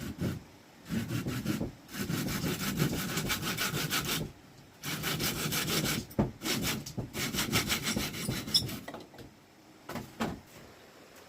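Hand saw cutting through wood in quick back-and-forth strokes, in three runs with short pauses between. The sawing stops after about nine seconds, followed by two short knocks.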